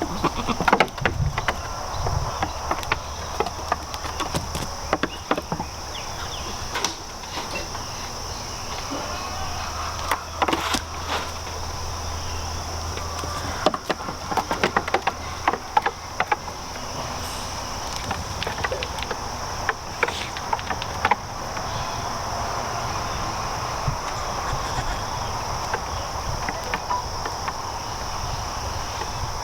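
Steady high insect chorus, like crickets, with scattered knocks and clatters throughout.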